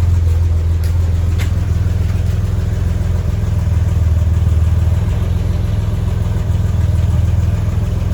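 1985 Chevy S10's carbureted 2.8-litre V6 idling steadily, exhausting through a Borla muffler with no pipe after it, a loud, even, low exhaust note.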